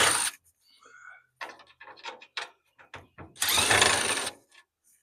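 Cordless power driver backing out the screws inside a clothes dryer's door, in two short runs about three seconds apart, with small clicks and clatter between.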